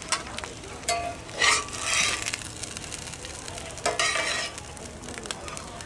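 Potato latkes frying in hot oil in a cast-iron skillet, sizzling steadily. A metal spatula scrapes the pan in a few short bursts as the pancakes are lifted out.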